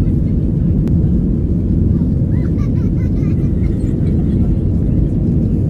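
Steady low rumble of aircraft engines and airflow heard inside the passenger cabin, with faint voices briefly in the background.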